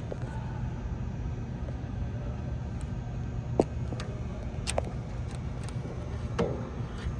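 Background noise of a car-show exhibition hall: a steady low hum with scattered light clicks and knocks.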